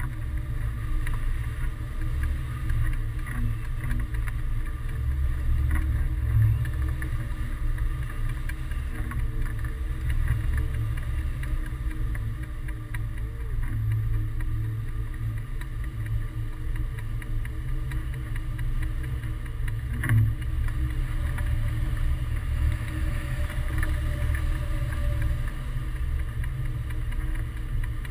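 Wind rushing over the microphone during a hang-glider flight: a steady low rumble that swells and eases a little without stopping.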